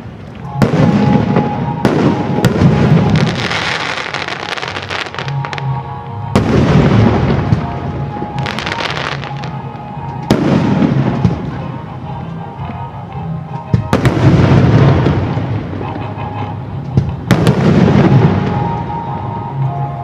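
Aerial firework shells exploding overhead, a sharp bang every few seconds, each trailed by a long rumbling echo.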